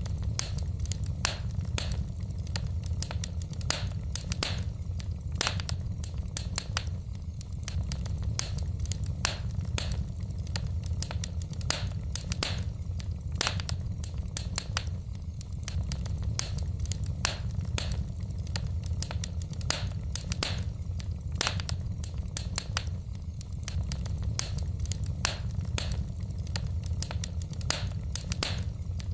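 Wood fire in a fireplace crackling, with frequent sharp pops at irregular intervals over a steady low rumble of the flames.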